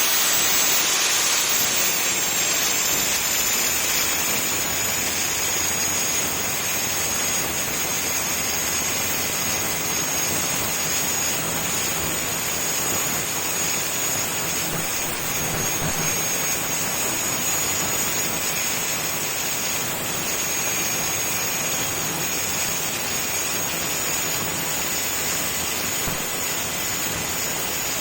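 Angle grinder running continuously against a steel exhaust hanger, a steady high whine over a rushing hiss of grinding.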